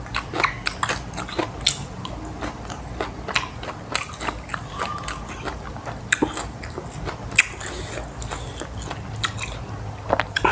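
A person chewing and biting food close to the microphone: irregular crunches and wet mouth clicks, several a second.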